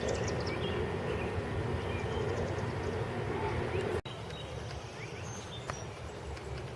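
Steady outdoor rumble that breaks off at an abrupt cut about four seconds in, followed by a quieter outdoor background with birds chirping.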